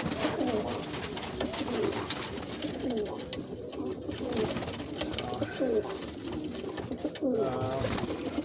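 Many domestic pigeons cooing together in a small loft, their calls overlapping in a continuous low murmur, with one louder coo near the end.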